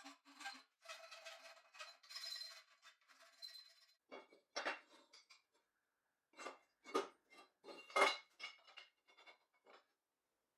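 Small hard objects being handled: a scratchy, rattling stretch for the first few seconds, then about a dozen separate light clinks and knocks. The loudest knock comes about eight seconds in.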